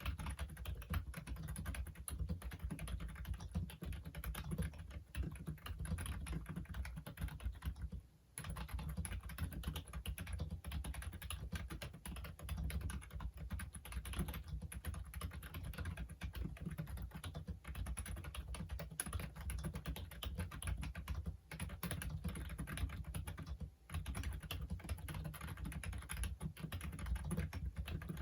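Continuous fast typing on a Logitech Wave Keys ergonomic keyboard, a steady patter of key clicks with a few brief pauses.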